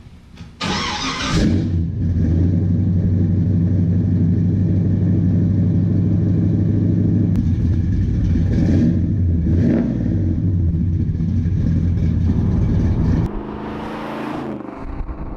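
1968 Chevrolet Chevelle engine cold-starting: it fires with a short loud burst about half a second in, then runs at a fast, steady idle. Two brief throttle blips come around nine and ten seconds, and near the end it settles to a lower, quieter idle.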